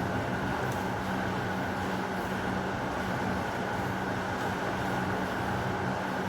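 Heavy rain falling steadily, an even rushing noise.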